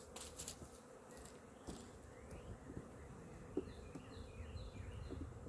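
Honeybees buzzing around an opened hive, a faint steady hum, with a few small knocks.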